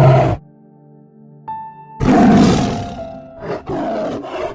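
A big cat roaring, three times: one call tailing off at the start, a long, loud one about two seconds in, and a shorter one after it, over soft background music.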